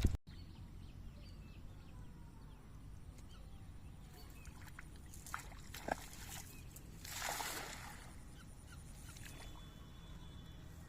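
Faint steady outdoor background noise with a few small knocks and a brief splash of water about seven seconds in.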